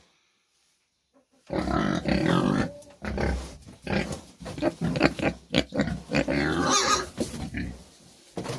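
Domestic pigs grunting, a dense run of short calls that starts about a second and a half in, after a moment of silence.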